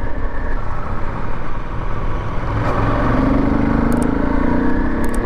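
Motorcycle running on the road, with heavy rumbling wind noise on the microphone. About three seconds in, a steady engine hum comes up clearer.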